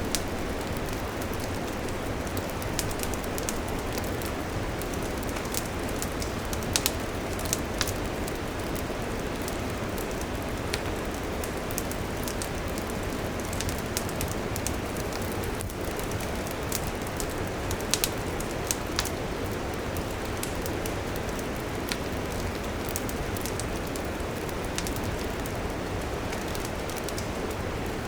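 Wood campfire burning with a steady hiss and rush, crackling and popping irregularly, with a few sharper, louder pops.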